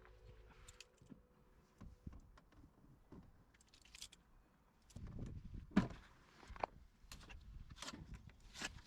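Faint, scattered clicks and knocks, with a cluster of louder knocks about five to seven seconds in.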